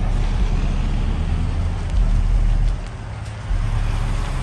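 Deep bass from a high-powered car-audio system in a semi truck, played loud: low, sustained notes that change in steps every second or so.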